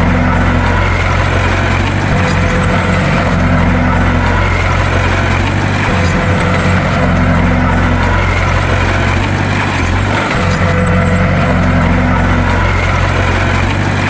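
Bulldozer's diesel engine running steadily under load, a deep, even drone with a higher tone pattern that recurs about every three to four seconds.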